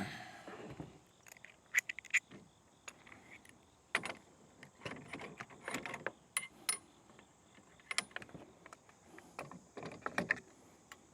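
Light metallic clinks and rattles of kayak landing-gear hardware being handled as a wheel is fitted on its axle, in irregular bursts with a louder cluster about four seconds in and another near ten seconds.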